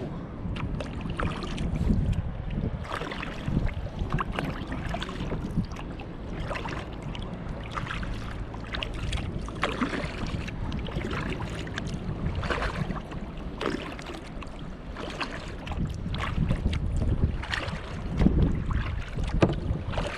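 Kayak paddle blades dipping into the water in repeated splashing strokes, with wind buffeting the microphone.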